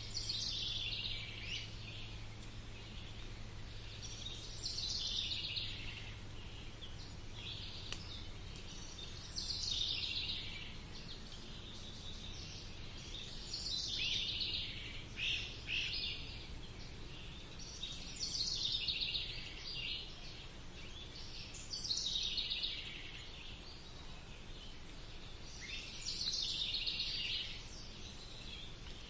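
A songbird singing the same short song over and over, one phrase falling in pitch every four to five seconds, over a steady low background hum.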